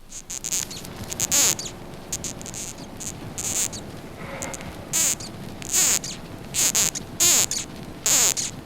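Death's head hawk moth squeaking: a series of short, high-pitched squeaks, roughly one a second and irregularly spaced, which the moth makes to frighten predators away.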